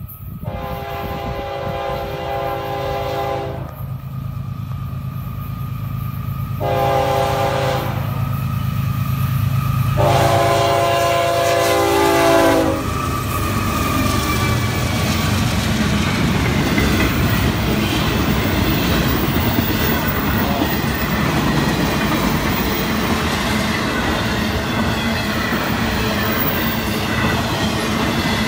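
Florida East Coast Railway freight locomotive sounding its air horn in three blasts: long, short, long. Then the train goes by, its intermodal cars rolling past with a steady loud rumble and clatter of wheels on rail.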